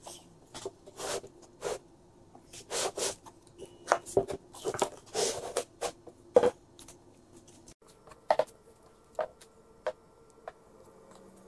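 Wooden casting flask and plywood boards knocking and sliding on a workbench, a series of short irregular knocks and scrapes. In the last few seconds, fewer scrapes and crunches as packed casting sand is scooped out around the pattern.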